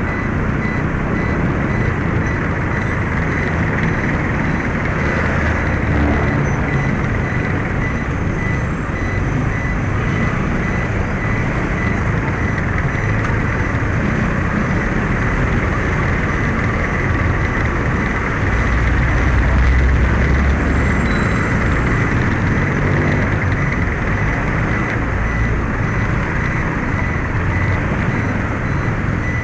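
Steady, loud riding noise from an automatic motor scooter under way: engine and road noise with traffic around, swelling briefly about two-thirds of the way through.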